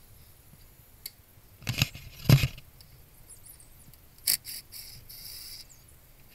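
A few short clicks, knocks and scrapes of hands working with metal parts or tools, loudest about two seconds in, with a brief hissing scrape around five seconds in.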